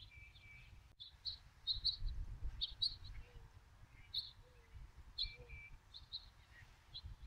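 Small birds chirping, short high chirps repeated every second or so, over a faint low rumble.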